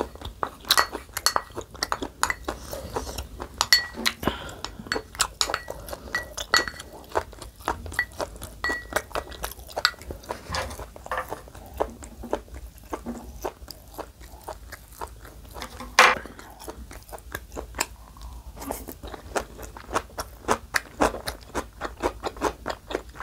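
Close-miked eating sounds: wet crunching and chewing of radish kimchi, with small crackles and mouth clicks in quick succession, and one sharp knock about 16 seconds in.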